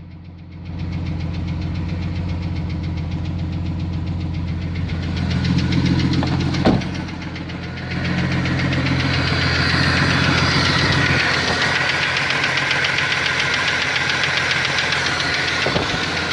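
A 1992 Jeep Cherokee XJ's 4.0-litre inline-six running with a fast, even knock, which the owner suspects is a loose flexplate bolt or piston slap. A sharp click sounds once about seven seconds in, and from about eight seconds the engine sound gets louder and brighter.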